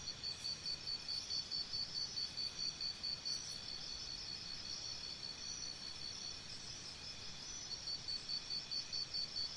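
Faint insect chirping: short high chirps in a steady rhythm of about four or five a second. The chirping stops for a few seconds in the middle and starts again near the end.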